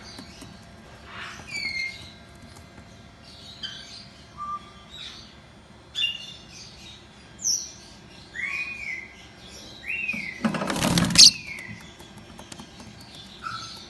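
Several caged birds chirping and whistling in short scattered calls, some rising and falling in pitch, with one louder harsh burst a little over ten seconds in.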